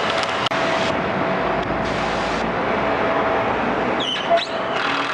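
Steady road traffic and engine noise with a faint steady hum, broken by a brief dropout about half a second in.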